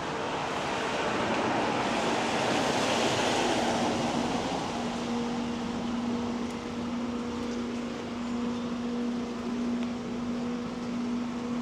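A vehicle passes on a wet road: its tyre hiss swells over the first few seconds and then fades. From about four and a half seconds a steady low hum continues.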